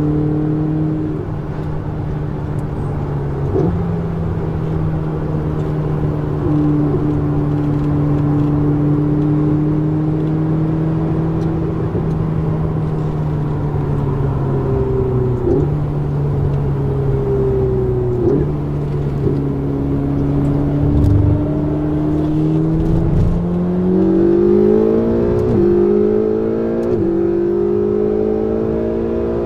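Ferrari 488 GTB's twin-turbo V8 through a Capristo exhaust, heard from inside the car: a steady engine note that steps up and down several times with gear changes, then climbs near the end as the car accelerates, dipping briefly at two quick upshifts.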